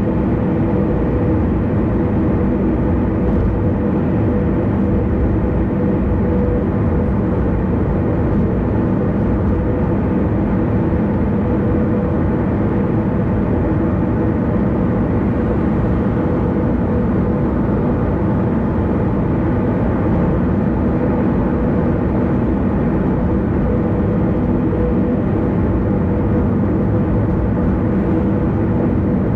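Steady road and engine noise of a car cruising on an expressway, with a constant low hum that does not change.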